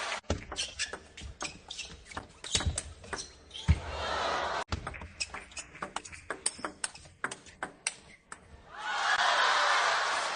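Table tennis ball clicking back and forth off paddles and table in two quick rallies, each followed by a burst of crowd cheering and applause in a large hall.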